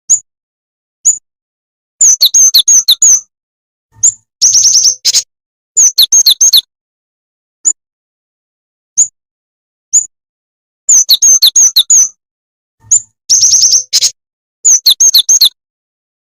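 Jingjing tetep bird calls played as a trapping lure: single sharp, high chirps about a second apart alternating with quick runs of rapid chirps, the same sequence repeating about every nine seconds like a looped recording.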